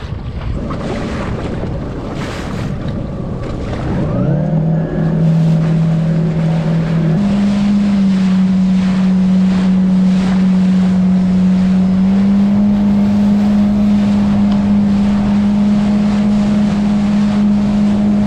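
Boat engine throttling up about four seconds in, its note rising in steps and then holding steady as the boat runs at speed, with wind and water rushing past.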